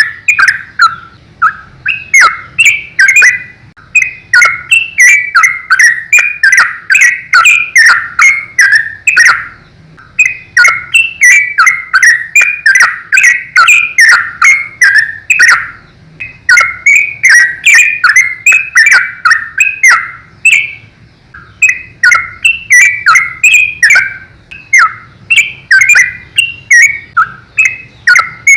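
Yellow-vented bulbul (trucukan) singing in rapid, continuous runs of loud bubbly notes, broken by a few short pauses.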